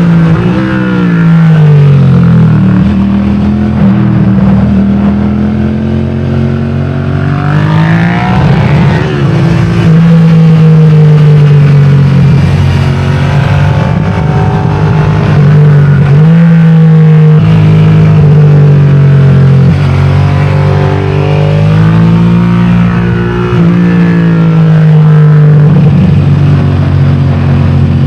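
Suzuki SV650's V-twin engine at racing pace, revving up hard along the straights and falling back for the corners. Its pitch rises and drops over and over.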